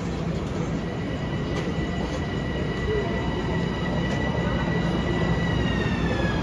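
LIRR M7 electric train pulling into the station: a steady rumble of wheels on rails, joined about a second and a half in by a high whine that holds steady, then begins to fall in pitch near the end as the train slows.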